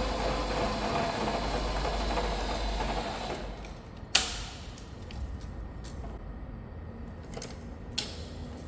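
Milling machine running with an adjustable boring head cutting steel. The noise dies down after about three seconds, followed by a sharp metallic click about four seconds in and another near the end.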